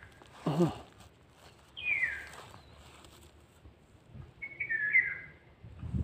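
A bird calling: short clear whistled phrases that fall in pitch, twice, about three seconds apart. A brief low voice-like sound, dropping in pitch, comes about half a second in.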